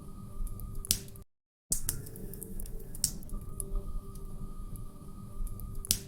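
Log fire crackling in a fireplace: irregular sharp pops and snaps over a low rumble, with a faint steady hum underneath. The sound drops out to silence for about half a second just after the first second.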